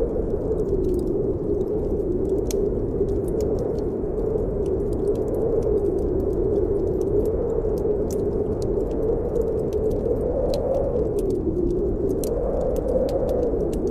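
Snowstorm wind howling, a steady roar that slowly rises and falls in pitch, with the sharp snaps and crackles of a wood fire burning in a fireplace all through it.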